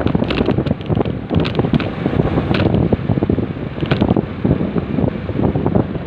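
Heavy, gusting wind noise on the microphone of a riding motorcycle, with road and vehicle noise underneath.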